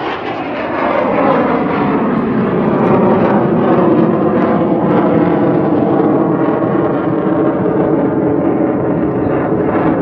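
Jet noise from U.S. Navy Blue Angels F/A-18 Hornets flying a high-speed pass. A steady roar builds about a second in, and its tones glide slightly downward as the jets pull up and away.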